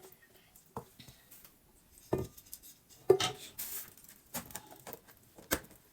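Scattered knocks, clinks and plastic rustling as soup is packed into plastic bags and kitchen containers are handled; the loudest knock comes about three seconds in.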